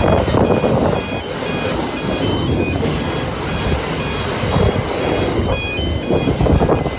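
Long steel freight train rolling past, its wagons rumbling and rattling. Under it runs an electronic two-tone beeping, alternating high and low about twice a second.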